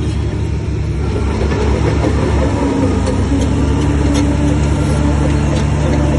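Heavy diesel engine of earthmoving machinery running steadily, getting a little louder about a second and a half in.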